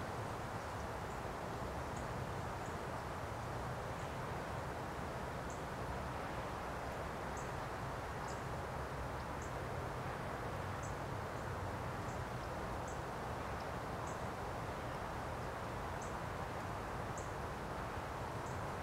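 Outdoor ambience: a steady background hiss with short, high bird chirps repeating about once a second at an uneven pace.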